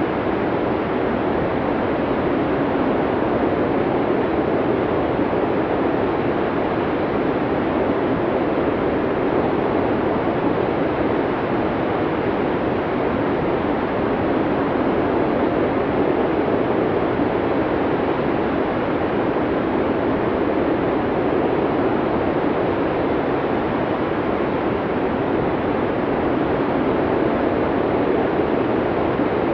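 Snowstorm wind noise: a steady, even rushing hiss, deepest in the low middle, with no gusts or breaks.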